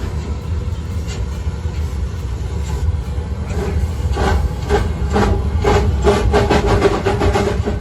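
Narrow-gauge train running with a steady low rumble. About halfway through, a quick run of rattling clacks and squeals joins in and grows louder toward the end.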